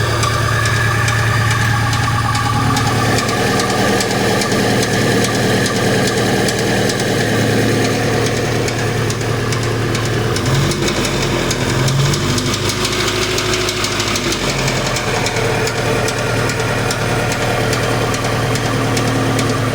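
VAZ-2101 inline-four engine running at idle with a fast, steady knocking. The knock comes from a worn piston pin.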